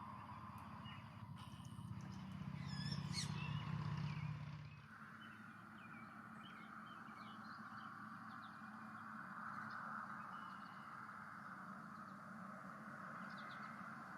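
Wild birds chirping over outdoor ambience, with one quick warbling call about three seconds in. A low hum sits under the first few seconds; after a cut near five seconds it gives way to a steady hiss with scattered faint chirps.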